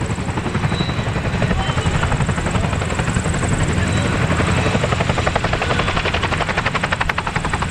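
RAF Chinook tandem-rotor helicopter hovering, its rotor blades beating in a fast, even rhythm over a heavy engine rumble.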